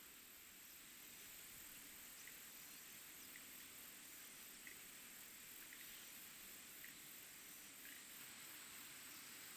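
Faint, steady chirring of autumn insects such as crickets, with a high, evenly pulsing trill. A few soft ticks are scattered through it.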